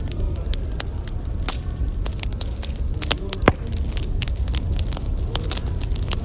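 Wood fire crackling, with irregular sharp pops over a low steady rumble and one louder pop about three and a half seconds in.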